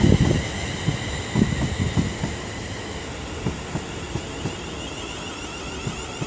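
Class 350 Desiro electric multiple unit running slowly through the station on arrival, its wheels knocking irregularly over rail joints, with a steady high whine. The knocks are densest in the first two seconds, then thin out as the sound eases a little.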